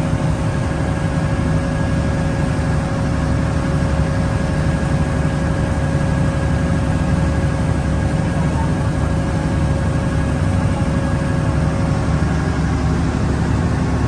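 Cross-river ferry boat's engine running steadily, a continuous low drone with a faint steady whine over it that fades out near the end.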